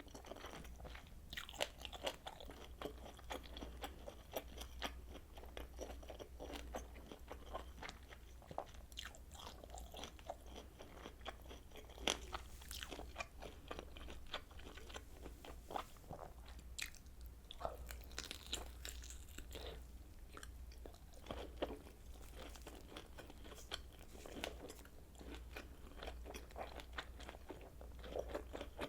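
Close-miked chewing and biting of kielbasa sausage: many short, sharp snaps and wet clicks of the casing and meat between the teeth, in an irregular run, with a steady low hum underneath.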